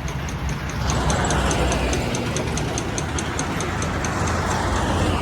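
A vehicle engine running steadily with a low hum, joined about a second in by louder road or wind noise, over a rapid, even high ticking of about five ticks a second.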